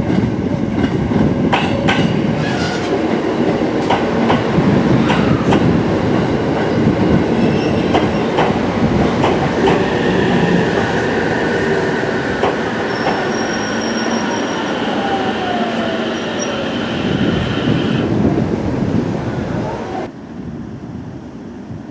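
JR Central 313 series electric train pulling into a station: wheels clicking over rail joints, then squealing brakes and a falling motor whine as it slows to a stop. The sound drops away suddenly near the end.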